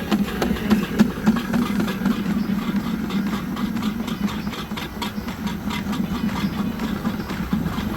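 Sewer drain-cleaning machine running as its cable is fed into a clogged sewer line: a steady motor hum with a fast, even pulsing, and a few knocks in the first second or so.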